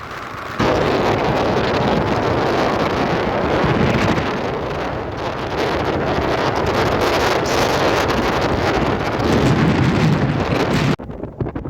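Loud rushing noise of heavy rain with wind buffeting the microphone. It starts abruptly about half a second in and cuts off abruptly near the end.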